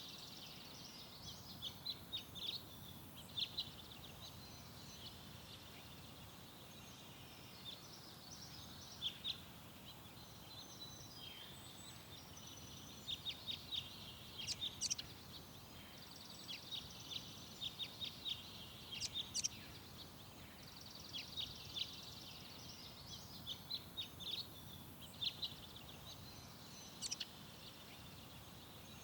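Garden songbirds singing: bursts of quick, high chirps and trills lasting a few seconds each, separated by pauses, over a steady faint background hiss.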